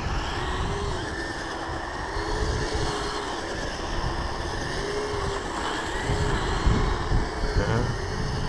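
Kyosho Blizzard radio-controlled snow vehicle's brushed electric motor whining as it drives and drifts through snow, the pitch rising and falling with the throttle.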